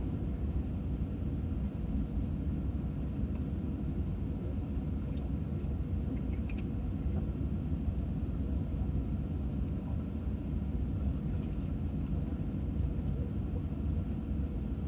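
Steady low rumble, like an idling vehicle heard from inside, with a faint steady hum and a few faint small clicks.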